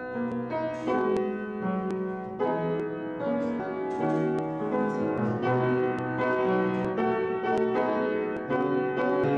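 Piano playing a slow instrumental piece, with held notes and chords changing every second or so.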